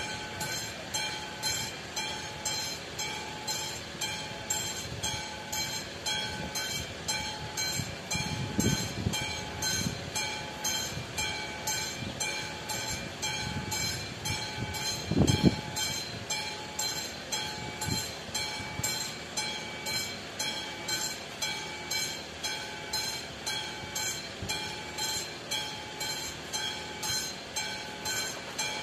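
Level-crossing warning bell of an AŽD 71 crossing signal ringing steadily at about two strokes a second. Low rumbles join about eight to ten seconds in, and a single loud thump comes about halfway through.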